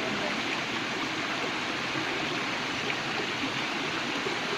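Steady rush of flowing water from a waterfall and its stream.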